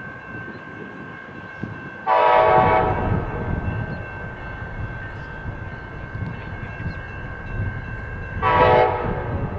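A locomotive air horn sounds two blasts, about six seconds apart, the first about a second long and the second shorter, over the steady rumble of a moving train.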